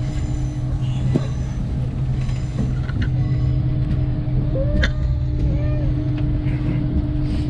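Steady low rumble and hum inside a moving passenger train carriage, with a couple of short knocks and a brief squeak about five seconds in.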